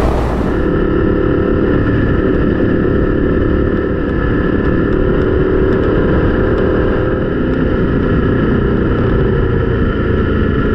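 BMW GS boxer-twin motorcycle engine running steadily at road speed, heard from the bike's onboard camera.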